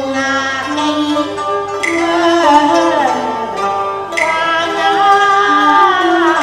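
Cantonese opera song: a voice singing with wavering, gliding notes over traditional Chinese instrumental accompaniment.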